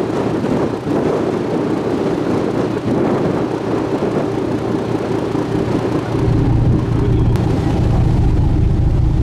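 Sightseeing boat's engine running steadily, with wind and water noise. About six seconds in, a deeper, louder rumble comes in, as if the engine is throttling up.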